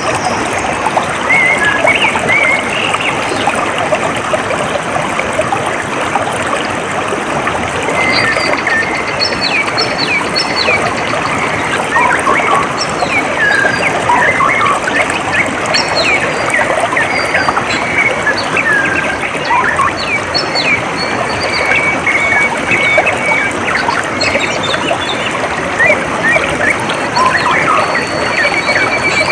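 Water trickling and flowing steadily, with many birds chirping over it in short calls and glides; one bird gives a fast trill on a single note a little after the middle and again near the end.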